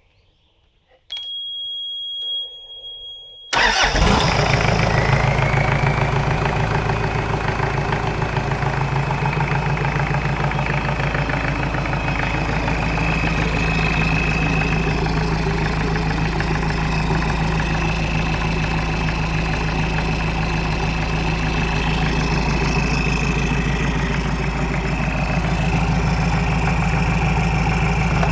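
A control panel's warning buzzer sounds steadily for a couple of seconds as the ignition is switched on. About three and a half seconds in, a Nanni 4.390Tdi 200 hp marine diesel engine fires almost at once and settles into a steady idle on the test run.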